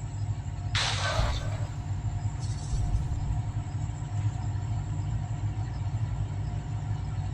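Tractor engine running steadily with a low drone, with a short loud hiss about a second in and a fainter hiss a couple of seconds later.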